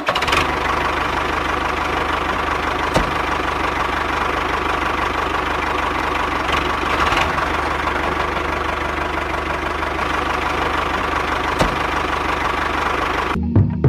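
A small motor running steadily with a whirring, rattling noise, with a few faint clicks.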